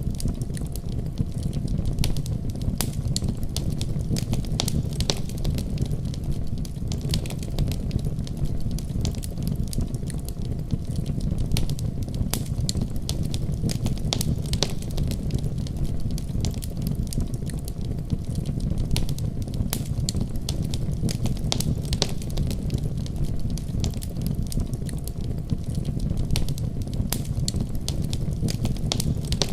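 Wood fire crackling with frequent short, sharp pops and snaps, over a steady deep rumble of a heavy winter storm.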